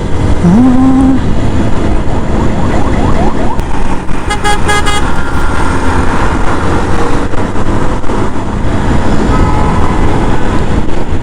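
TVS Apache 4V single-cylinder motorcycle being ridden on a road, heard under a steady rush of wind and road noise. A short burst of rapid horn beeps sounds about four and a half seconds in.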